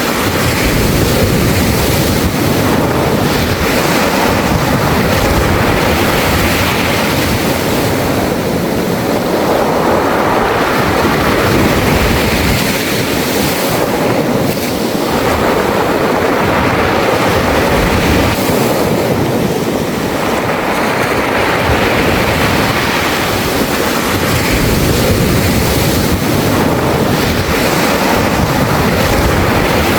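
Sea waves washing up and drawing back over a beach of round, smooth pebbles, the pebbles rattling in the surge; the wash swells and eases every several seconds. Some wind buffets the microphone.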